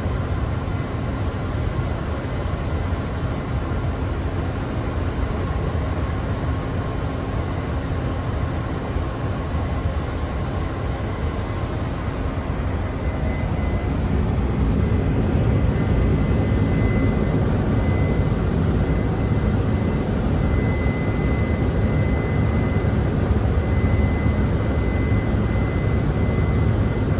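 Steady rumble of airflow and jet engine noise in a Boeing 747's cockpit during the climb after takeoff. It grows louder about halfway through, with a faint high steady tone from then on.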